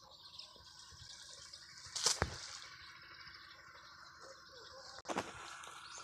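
Small birds chirping in short, drip-like notes over a steady low hum, with two louder brief noises about two seconds in and just after five seconds.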